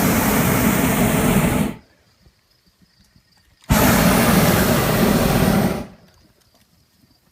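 Hot air balloon propane burner firing twice. Each blast is a loud, steady rush of about two seconds that cuts off sharply, with a pause of about two seconds between them.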